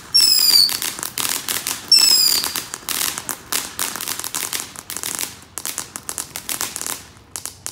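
Consumer fireworks going off: two short high whistles about two seconds apart, each falling slightly in pitch, amid dense crackling that thins out near the end.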